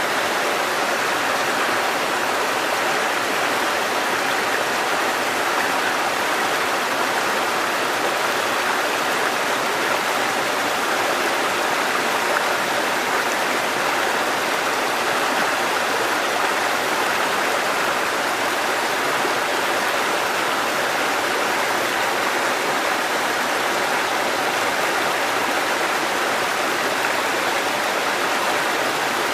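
Water cascading down a mountain stream: a steady, even rushing that does not change.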